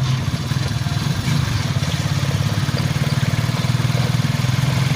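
A small engine running steadily, a low fast chug with no change in speed.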